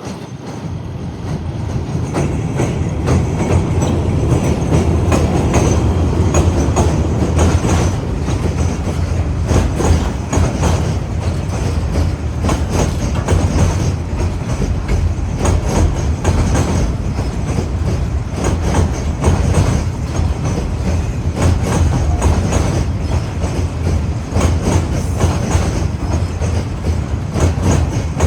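DSG-class diesel-electric shunting locomotive hauling its train past, a steady low engine rumble with wagon wheels clicking over rail joints. It grows louder over the first few seconds and then stays loud.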